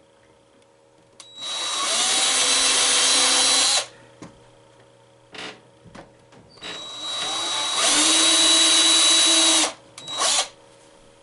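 Power drill with a 3/32-inch bit boring small holes into a wooden pinball playfield. It makes two runs of about three seconds each, the motor pitch climbing as it spins up and then holding steady, followed by a short burst near the end.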